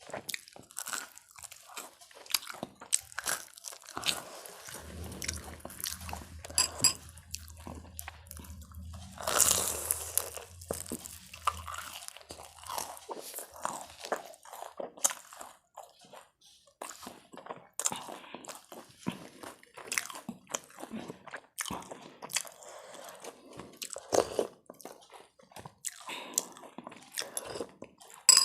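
A person biting and chewing crunchy food close to the microphone: irregular crunches, crackles and mouth smacks. A faint low hum runs beneath it from about five to twelve seconds in.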